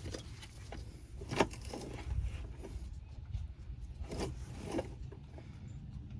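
Hand tools and parts being handled during work on a van's driveline: a few sharp knocks, about a second in and twice more near the end, with scraping sounds over a low rumble.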